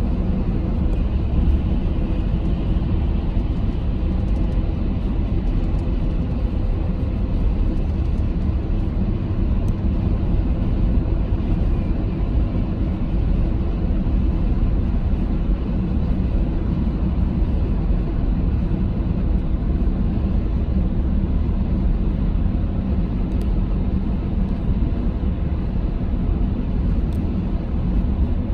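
Steady low rumbling noise, strongest in the deep bass, unbroken and with no distinct events.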